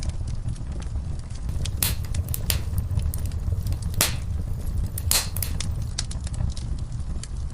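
Wood fire in a fireplace crackling: a steady low rumble of flames with constant small crackles and several louder, sharp pops from the burning wood, the biggest about 4 and 5 seconds in.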